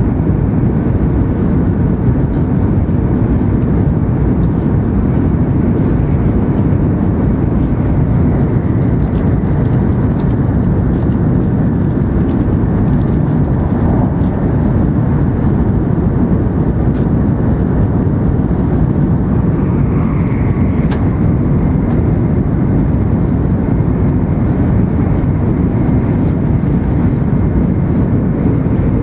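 Loud, steady rumble and roar of an N700 series Shinkansen running at speed, heard inside the passenger cabin while the train passes through a tunnel.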